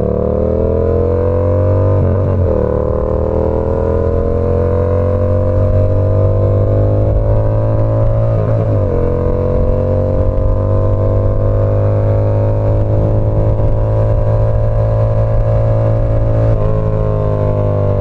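Yamaha R7's parallel-twin engine through an SC Project CR-T exhaust, running under way at steady, slowly climbing revs, with a brief break in the note three times.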